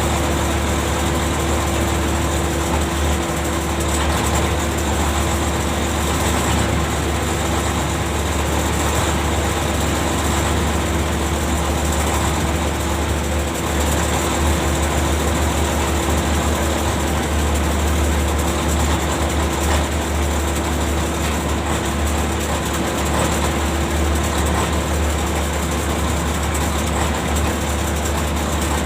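Heavy machinery aboard a ship running steadily: a deep engine drone with a constant hum over it, never changing in pace or loudness.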